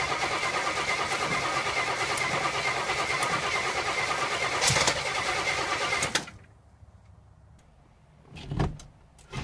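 1971 Oldsmobile Cutlass engine cranking over on its starter in an even, rhythmic chug without catching, the carbureted engine failing to fire. The cranking cuts off about six seconds in, and a single low thump follows a couple of seconds later.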